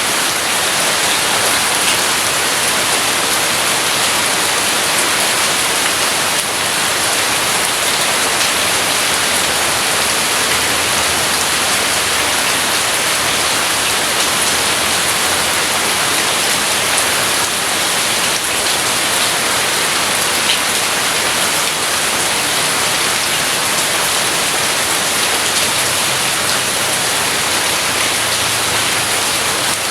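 Steady heavy rain falling, an even unbroken hiss with no thunderclap.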